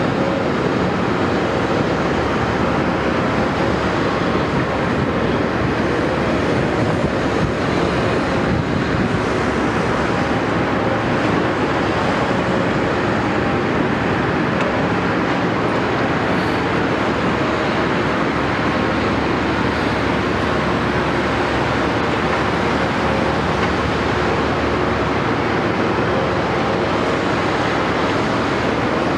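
Caterpillar 329E excavator's diesel engine running steadily under a constant wash of machine noise, with no distinct knocks or impacts.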